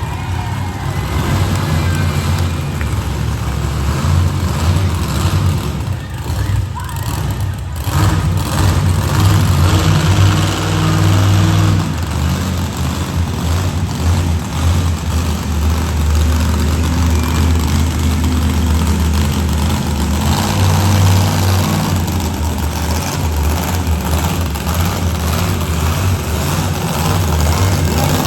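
Monster truck engines running loudly and revving, rising and falling.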